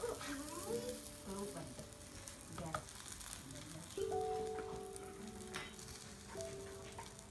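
A bánh xèo frying in pork lard in a pan, a faint steady sizzle with a few light clicks of handling near the start. Held steady tones, like quiet background music, sound over it from about halfway through.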